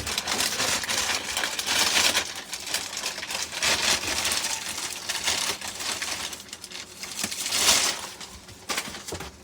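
Paper crinkling and rustling in irregular bursts as it is handled, with a louder burst near the end.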